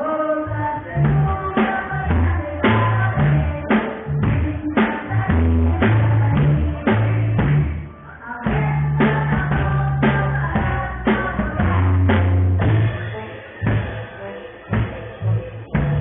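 A band playing a song: a drum kit keeps a steady beat under a stepping bass line, with a melody on top. The music drops back briefly about eight seconds in.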